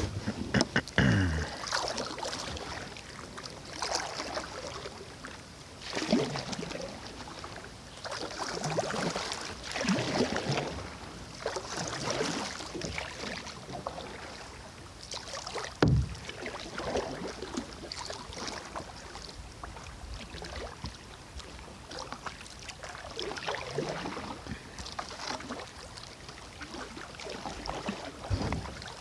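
Kayak paddle strokes, the blade dipping and pulling through the water with a splashing swish about every two seconds. A single sharp knock comes about halfway through.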